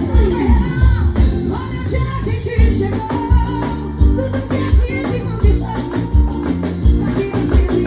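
Live band music with a steady, heavy beat, and a singer's voice over it.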